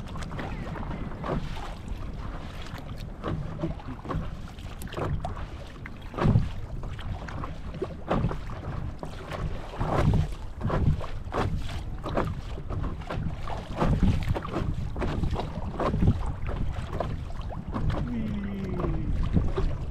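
Choppy lake water slapping and splashing irregularly against a paddle board, with wind buffeting the microphone.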